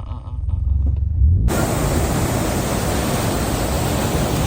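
Low rumble of a vehicle ride, cut off about a second and a half in by the loud, steady rush of a waterfall.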